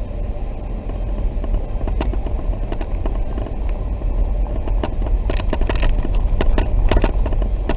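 Steady low road and engine rumble inside a Jeep driving on a snow-covered road, with scattered sharp clicks and crackles that come thickest in the second half.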